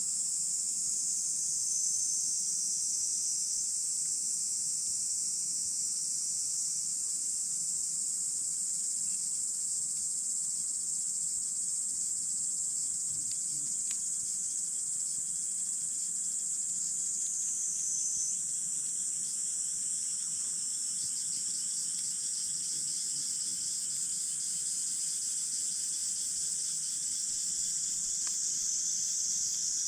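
A steady, high-pitched chorus of insects chirping, with a few faint crackles from a wood campfire.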